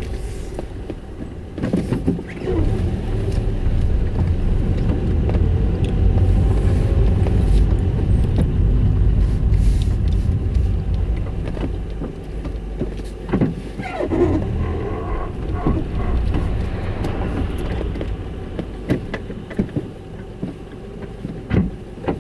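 Toyota Yaris running in reverse with a low grinding rumble, louder through the middle, and a few brief knocks and squeaks.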